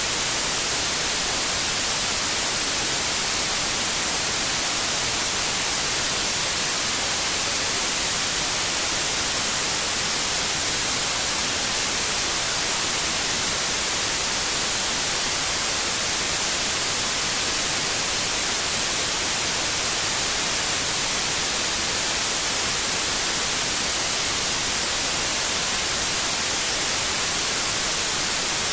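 Steady electronic white noise: an even, unbroken hiss, strongest in the treble, with no change in level.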